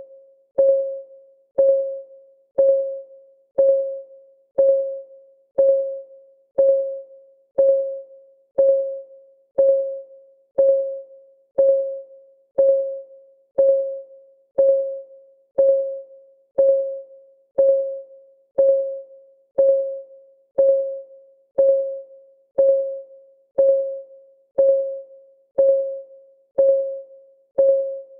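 Timer clock ticking, a steady tick about once a second, each a short pitched click that dies away quickly.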